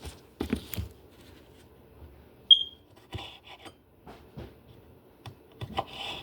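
A single short, high electronic beep about two and a half seconds in, the loudest sound here, among scattered light knocks and rustling from kitchen handling.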